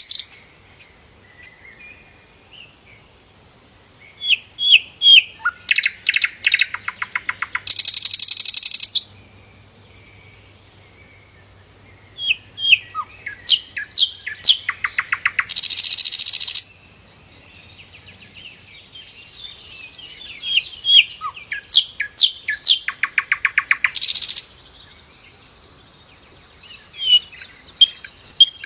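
Sikatan londo flycatcher singing: phrases of sharp high chirps that run into a rapid trill of fast-repeated notes, four phrases with quiet gaps of a few seconds between them.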